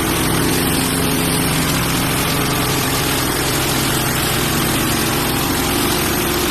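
Hudson Patriot band sawmill's engine running steadily at an even pitch.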